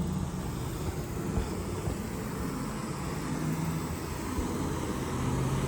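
A steady low engine-like hum over outdoor background noise, with a few faint ticks.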